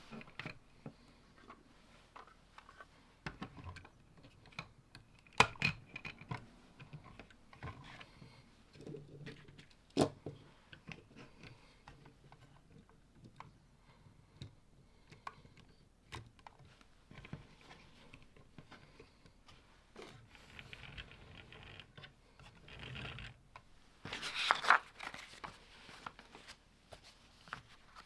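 Lego plastic bricks handled by hand: scattered sharp clicks and taps of parts knocking and pressing together, with a brief rustle about 24 seconds in.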